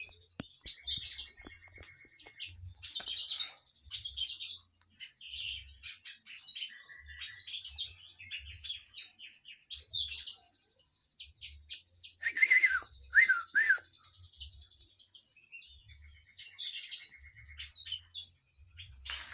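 Kinoi (a small sunbird kept as a song bird) singing vigorously: bursts of rapid, high twittering phrases every second or two, with occasional buzzy rattles. About twelve seconds in come three louder down-slurred notes, the loudest part.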